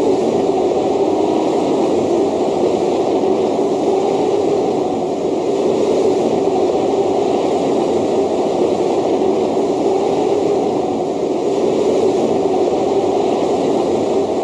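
Snowstorm sound effect: loud, steady wind noise that rises and falls a little.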